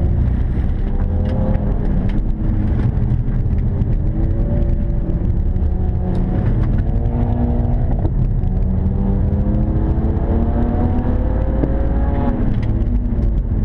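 BMW 335i E92's turbocharged 3.0-litre straight-six under hard acceleration, heard from inside the cabin over a heavy low road rumble. Its pitch climbs and drops back several times, with the longest climb in the second half.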